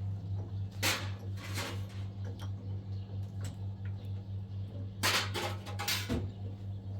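A steady, evenly pulsing low hum, with short clattering or scraping noises about a second in and again a few times around five to six seconds in.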